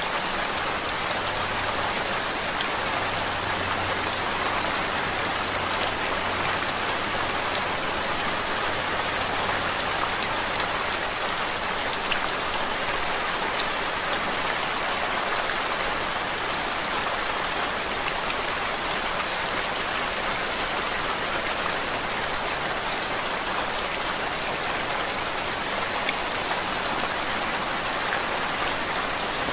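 Steady rain falling: a dense, even hiss with fine scattered drop ticks. A faint low hum sits underneath for about the first ten seconds.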